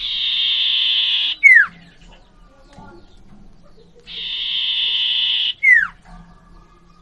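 Common iora (cipoh) singing: a long buzzy, trilled note of about a second and a half, then a sharp down-slurred whistle, repeated twice.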